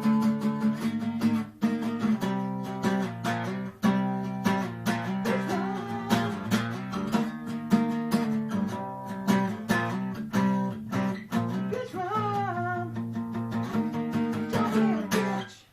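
Guitar music, acoustic guitar being strummed with other instruments, stopping abruptly at the end.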